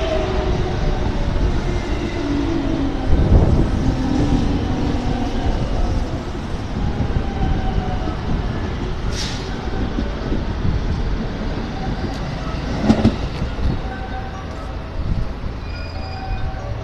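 Electric commuter train running alongside the platform, its wheels rumbling on the rails and its motor whine falling in pitch over the first few seconds as it slows. A short hiss comes about nine seconds in, and a knock about thirteen seconds in.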